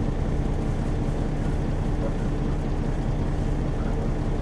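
Steady low rumble of a running vehicle engine, unchanged throughout, with a faint steady hum over it.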